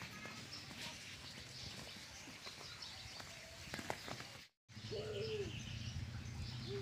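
Birds calling: short scattered chirps, and after a brief dropout about four and a half seconds in, a low arched coo.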